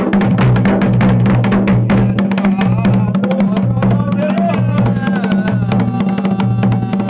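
Dhol and damau drums played together in a fast, steady rhythm of dense strokes with deep booming drum tones. From about halfway, a voice is heard over the drumming.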